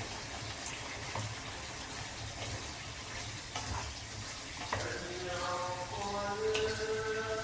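Water running steadily from a kitchen tap, with a few light clicks. Soft background music with held notes comes in about five seconds in.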